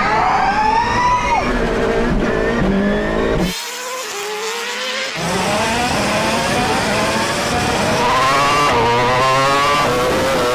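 High-revving race engines of a MotoGP motorcycle and Formula 1 cars accelerating hard from a standing start, the pitch climbing and dropping back at each upshift. About three and a half seconds in the sound turns abruptly thinner for a second and a half, then engines climb through the gears again.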